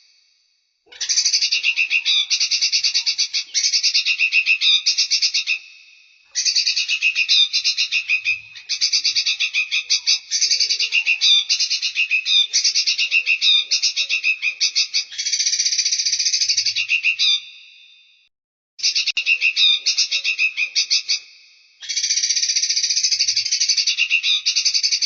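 Recorded songbird song: bouts of very fast, rapidly pulsed high chattering, each lasting a few seconds, broken by short pauses.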